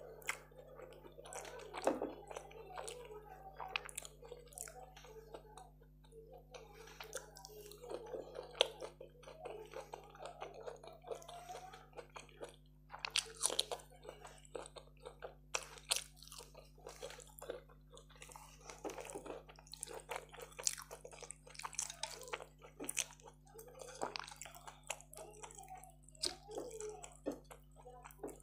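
Close-miked chewing and biting, with many short crisp crunches scattered irregularly, as food is eaten by hand.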